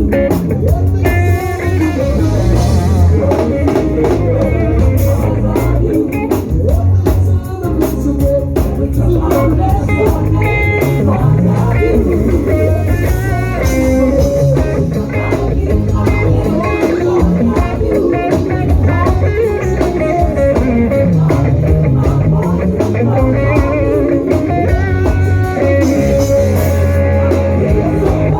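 Upbeat praise-and-worship music from a live band: electric guitar lines over bass guitar and drum kit, with voices singing, loud and continuous.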